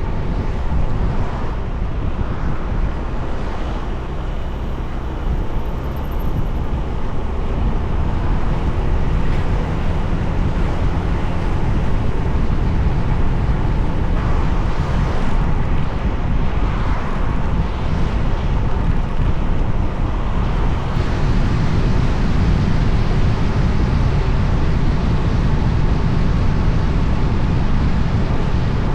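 A moving motorbike: wind buffeting the microphone over the steady running of the bike's engine and tyres on the road.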